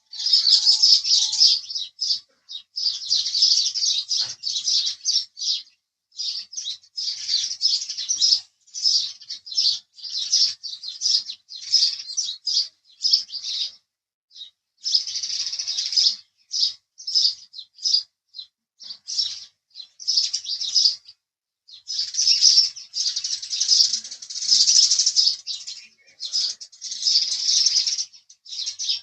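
House sparrows chirping in quick, dense bouts of short high chirps, with brief pauses every few seconds.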